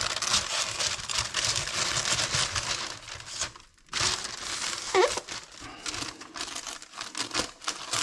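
Crinkly sheet material crackling and rustling as it is handled and cut, with difficulty. There is a brief lull a little before halfway and a short rising squeak about five seconds in.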